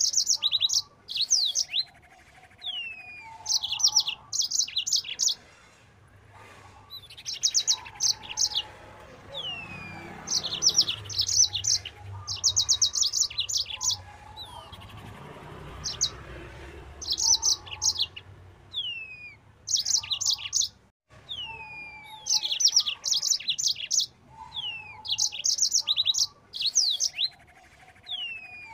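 Yellow-fronted canary (Mozambique canary) singing in repeated phrases of rapid high trills mixed with short falling whistles, with brief pauses between phrases.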